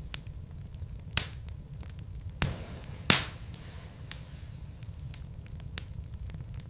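Wood logs burning in a fireplace: a steady low rumble with scattered crackles and sharp pops. Three louder pops come between about one and three seconds in, the loudest near the middle.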